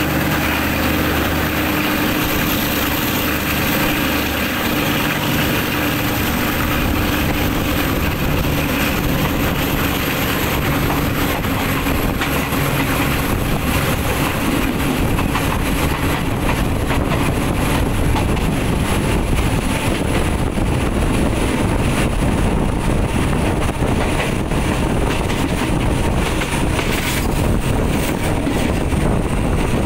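A passenger train running along the track, heard from the side of the coach with wind buffeting the microphone. A steady engine drone fades out in the first ten seconds or so. After that the rushing wind and rail noise grow fuller as the train gathers speed.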